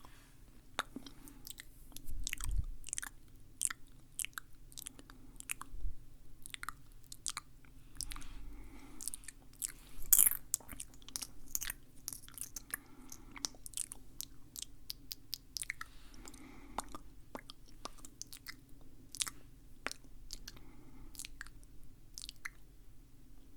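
Close-miked ASMR mouth sounds: an irregular stream of sharp, wet clicks and smacks of lips and tongue.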